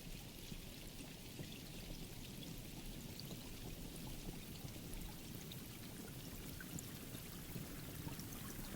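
Steady rain falling: a continuous hiss with a low rumble underneath and scattered sharp ticks of individual drops.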